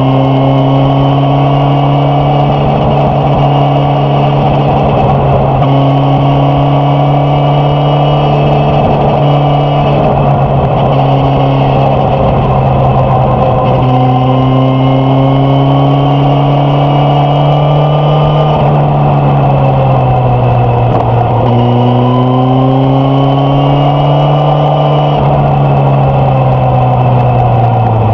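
Suzuki GSX-S1000F's inline-four engine and exhaust, heard from the saddle while riding, running loud and steady. Its pitch eases down about two-thirds of the way through, climbs again, and drops at the end.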